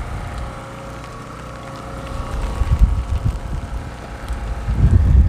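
Wind gusting across the microphone in low buffets, strongest about halfway through and near the end, over the steady running of a portable generator.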